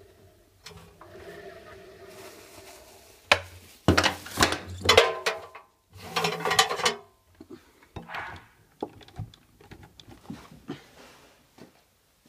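Mechanical clicks and knocks from an old washing machine being handled, with two louder clusters of clattering in the middle.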